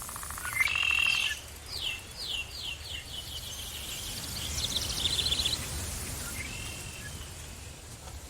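Songbirds calling in a forest: a short call about half a second in, then a series of quick downward-sweeping notes that speed up, a rapid chatter around the middle, and another brief call near the end. A steady low rumble runs underneath.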